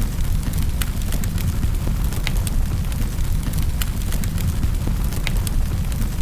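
Wood fire in a fireplace crackling, with sharp irregular pops and snaps a few times a second over a steady low rumble.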